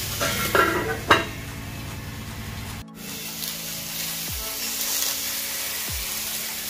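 Fish pieces and chopped tomatoes sizzling in a hot cast-iron kadai with no oil, with one sharp metal knock of the steel lid about a second in. Just before three seconds the sizzle drops to a quieter steady hiss.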